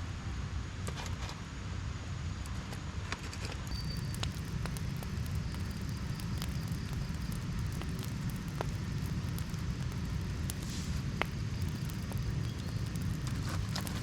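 Low, buffeting rumble of wind on the microphone, with scattered small clicks and crackles throughout.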